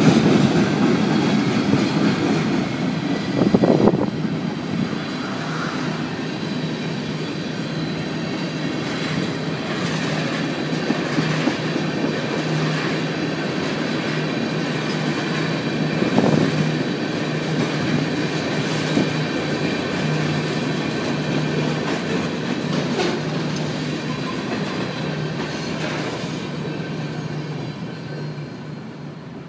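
Freight cars of a mixed freight train (tank cars, covered hoppers, a centerbeam flatcar) rolling past at a grade crossing: a steady rumble of steel wheels on rail, with a few sharp clanks, fading near the end as the last cars go by.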